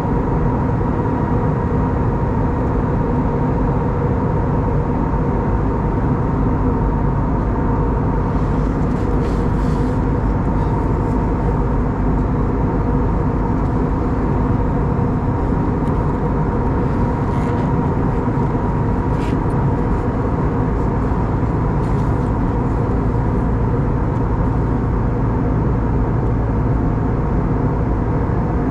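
Steady cabin drone inside an Airbus A320neo in flight: airflow and its CFM LEAP-1A engines, with a few steady hums running through it. A few faint clicks come through midway.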